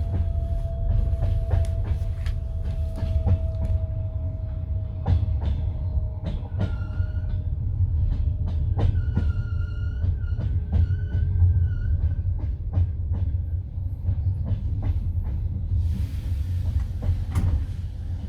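Passenger railway carriage rolling along the track: a steady low rumble with irregular clicks of the wheels over rail joints. A high metallic squeal comes in about six seconds in and again for a few seconds from about nine seconds in, and a hiss starts near the end.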